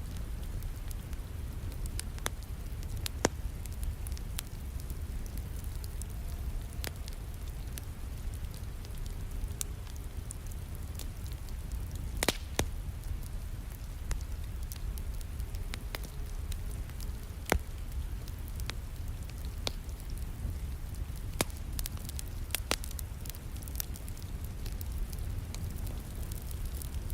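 Wood fire crackling in a fireplace, irregular sharp pops and snaps over a steady hiss of rain, with a low rumble underneath.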